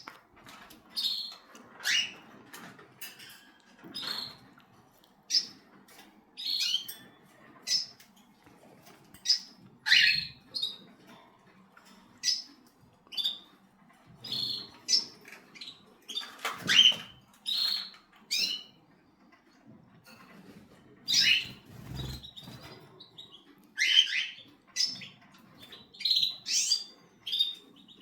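Pet cockatiel chirping in short, separate calls about once a second, several of them sweeping downward in pitch.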